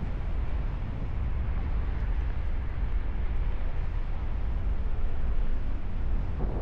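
Airflow buffeting the microphone of a paraglider pilot in flight: a steady, low rumbling wind noise with no break.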